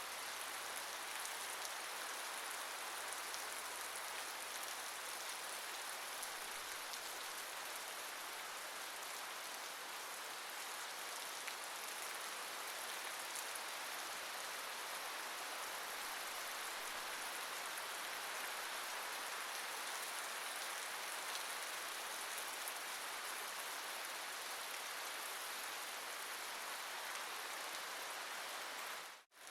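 Steady rain falling, an even hiss of many drops with no thunder. It cuts out for an instant near the end.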